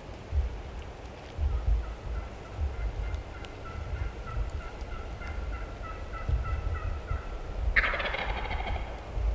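A string of about twenty short, evenly spaced turkey yelps, then a wild turkey gobbler gobbling loudly near the end. Low wind rumble on the microphone throughout.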